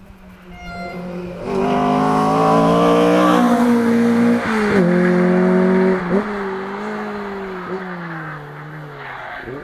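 Rally car engine at high revs going past, its pitch breaking sharply about four and a half seconds in and again near six seconds, as at gear changes. After that the engine note falls steadily and fades as the car moves away.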